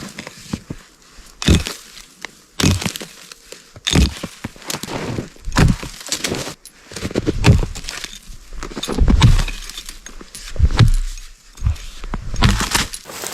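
A series of irregular crunching and cracking impacts, about one every second or so, some drawn out into longer crunches.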